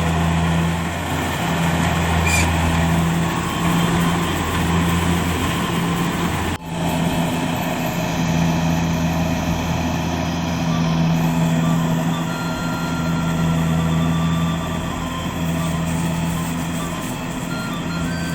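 Rice combine harvester's engine running steadily with a low drone, broken off briefly about six and a half seconds in.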